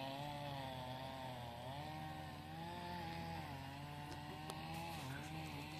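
Distant chainsaw running in the forest across the water, a steady drone that rises and falls slowly in pitch as it cuts.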